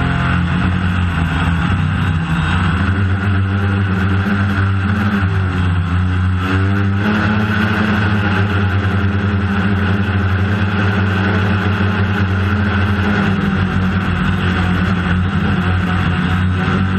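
DJI Phantom quadcopter's electric motors and propellers humming steadily in flight, the pitch gliding and stepping as the motor speeds change about halfway through.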